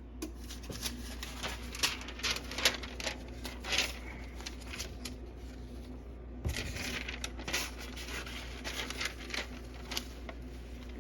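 Sheets of silicone parchment paper being handled, crinkling and rustling in irregular bursts, in two spells of a few seconds each.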